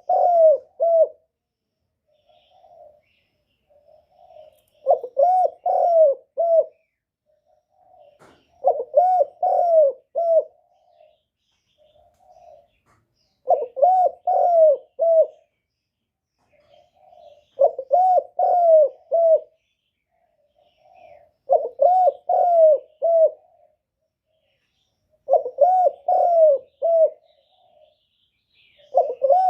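Spotted dove cooing: a soft lead-in note, then a loud phrase of three or four coos, repeated about every four seconds. This is the 'gù' coo used as a decoy call to draw wild doves in for trapping.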